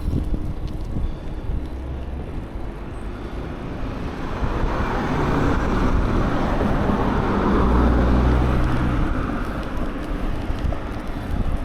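Wind buffeting the microphone during a bicycle ride, with a passing car: its tyre and engine noise swells from about five seconds in, is loudest around eight seconds, then fades.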